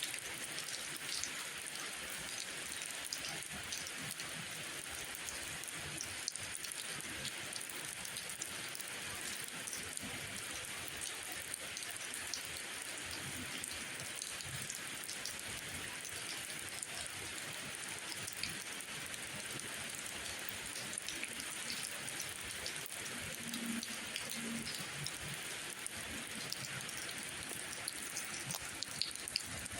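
Steady rain falling, an even hiss with scattered sharp drop ticks; a few louder ticks near the end.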